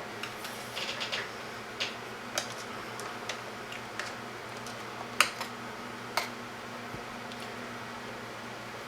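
Scattered light clicks and ticks from handwork with stranded wire and small tools, the sharpest a little past halfway, over a steady low hum.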